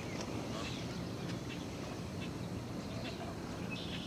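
Outdoor ambience at a pond: a steady low background rumble with scattered short bird chirps and calls.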